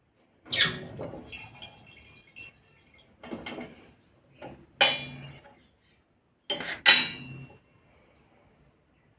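Sharp metallic clanks, four or five of them a second or two apart, each with a brief ring: steel tools or parts knocking together during work on a car's strut assembly.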